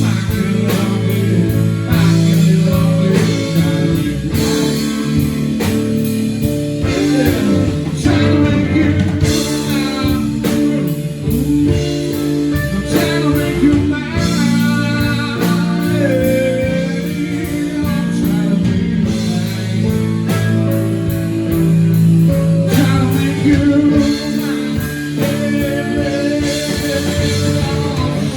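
Live band playing a song: electric guitar and drums over a steady beat.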